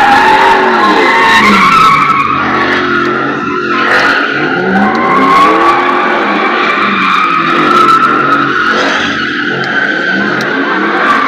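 Vehicle doing a burnout: tires squealing continuously in a wavering high tone while the engine revs up and down several times.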